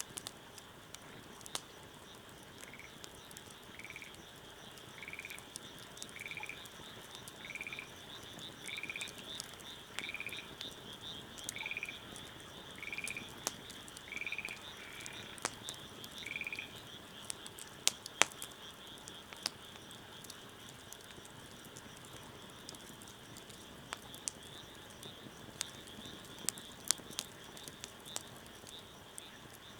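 Bonfire crackling, with scattered sharp pops. For the first half an animal gives about a dozen short calls, roughly one a second, over a steady high-pitched drone.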